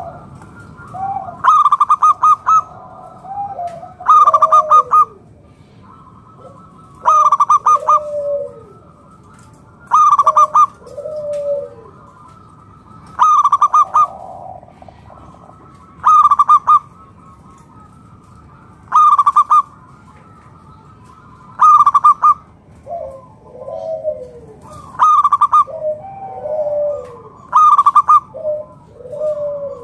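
Zebra dove (perkutut) cooing: a loud, rapidly pulsed phrase about every three seconds, with softer falling coos in between. This is the male's full song, used to draw other perkutut into calling.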